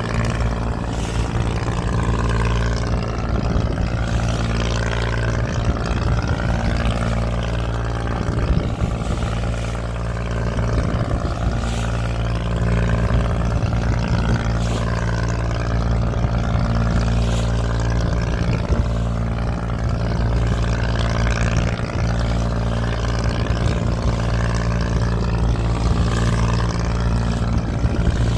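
Boat engine running steadily at sea, a constant low drone over a wash of water noise.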